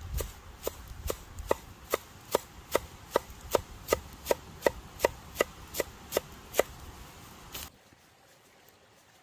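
Knife chopping food on a cutting board in a steady rhythm of about two and a half strokes a second, some sixteen strokes, stopping about two-thirds of the way in.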